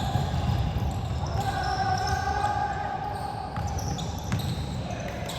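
Basketball game sounds in a gym: a ball bouncing on the floor with a few sharp knocks, under background voices.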